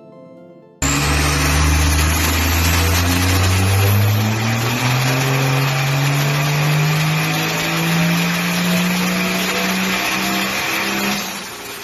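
Vehicle engine revving under load, its pitch climbing slowly and steadily for about ten seconds before falling away near the end. It cuts in suddenly about a second in and is loud throughout.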